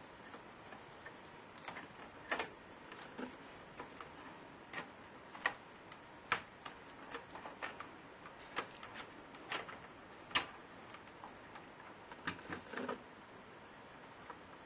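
Irregular small clicks and taps of plastic and metal parts being handled while a laptop is taken apart, about one or two a second, a few of them sharper and louder.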